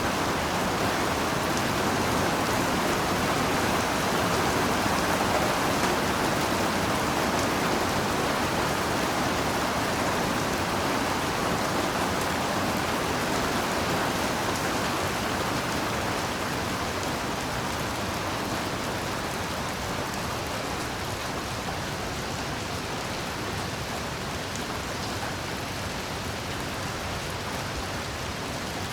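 Heavy rain falling steadily, a dense even hiss with no single drops or thunder standing out; it eases a little in the second half.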